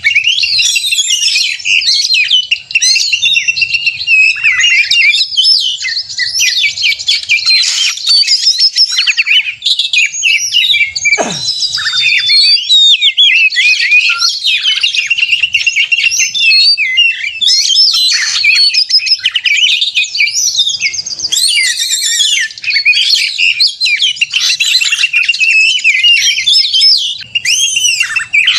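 Oriental magpie-robin (kacer) singing a loud, fast, unbroken fighting song of varied chirps, whistles and trills. One note slides steeply down in pitch a little over a third of the way through. This is the aggressive 'narung' song used to provoke other magpie-robins into singing.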